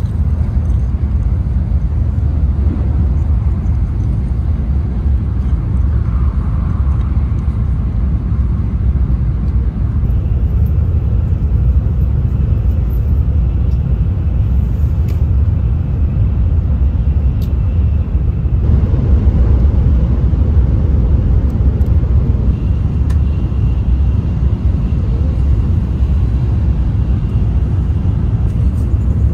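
Tokaido Shinkansen bullet train heard from inside the passenger car at speed: a steady low rumble of the running train, swelling slightly about two-thirds of the way through, with a faint high whine at times.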